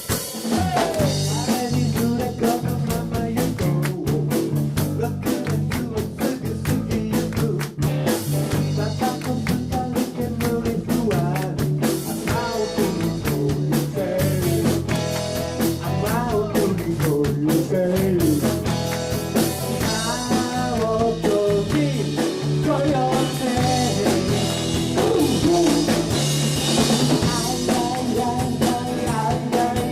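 Live rock band playing a song: drum kit, a bass line stepping through notes, and electric instruments, with a sung vocal line.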